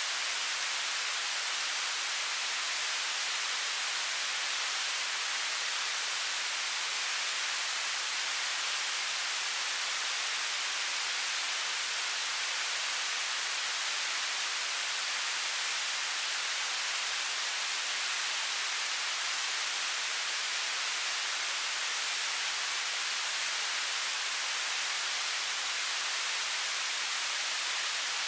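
Television static: a steady, even hiss of white noise, heavy in the treble and thin in the bass, unchanging throughout.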